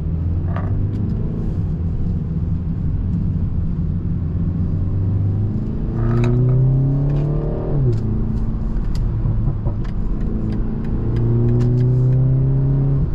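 BMW 330i's tuned two-litre turbocharged four-cylinder engine pulling under acceleration, heard from inside the car. The engine note holds steady, then climbs, drops sharply as it shifts up, and climbs again near the end.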